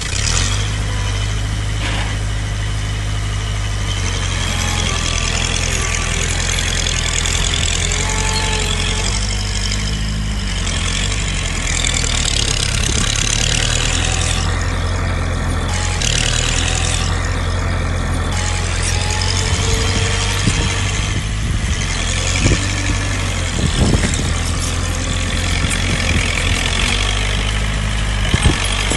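Heavy diesel engine of earthmoving machinery running steadily, with a few sharp knocks in the second half.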